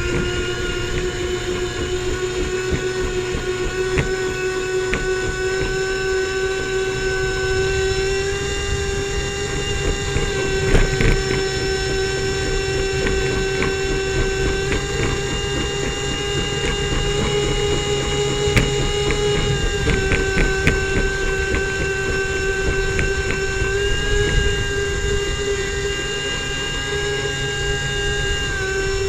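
Airboat engine and air propeller running at a steady speed: a high, steady drone that shifts slightly in pitch a few times.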